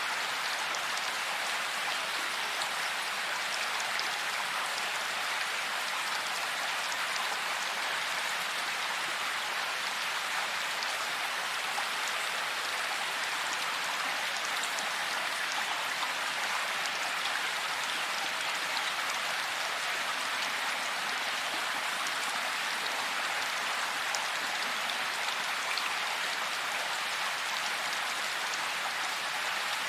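Steady rain falling, an even hiss of many drops that keeps a constant level throughout.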